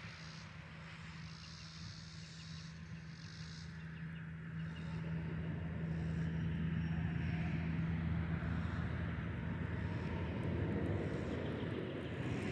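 A distant motor's steady low drone, growing louder from about five seconds in and then holding.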